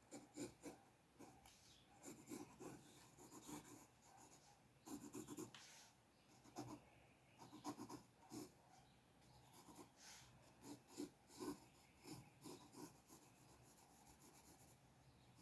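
Drawing strokes on paper: faint, scratchy strokes coming in quick clusters with short pauses between.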